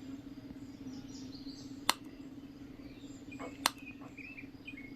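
Faint bird chirps over a steady low hum, broken by two sharp clicks just under two seconds apart.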